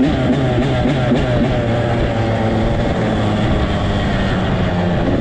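Small off-road vehicle engine running under way. Its revs rise and fall for the first couple of seconds, then settle to a steadier pitch.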